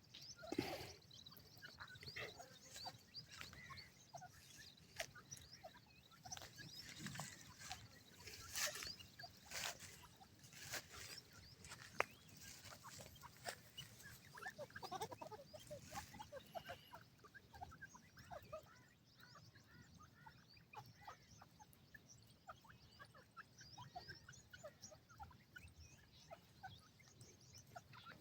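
Francolin (teetar) chicks peeping faintly: many short scattered peeps, with a few sharp clicks in the first half.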